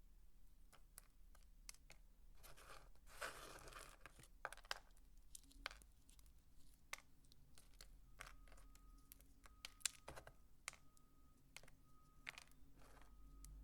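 Dry soap being worked by hand close to the microphone: a crinkly, crumbling rustle a few seconds in, then scattered crisp clicks and snaps.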